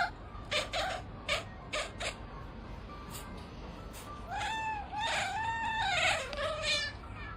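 A cat meowing: a few short calls in the first two seconds, then a run of about four drawn-out meows, each rising and falling in pitch, from about four to seven seconds in.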